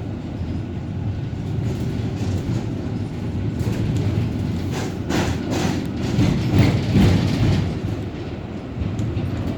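Tram running along its track with a steady low rumble, its wheels clattering over the rails in a run of clicks and knocks that grows louder between about four and seven seconds in.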